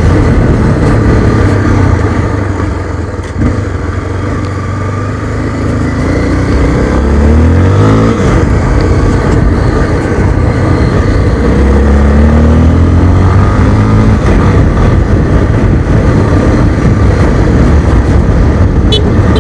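Motorcycle engine under way, pitch climbing twice as it accelerates through the gears, with a dense rush of wind and road noise throughout.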